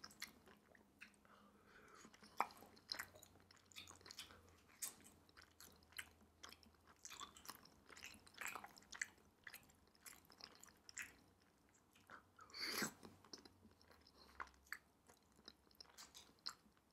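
Close-miked, faint chewing of soft, chewy Korean rice cakes (tteokbokki) in spicy sauce: many small, irregular mouth clicks. One louder mouth sound comes about three-quarters of the way through.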